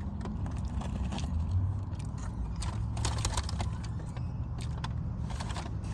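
Eating sounds: chewing, with short crackles and clicks from food packaging being handled, over a steady low hum.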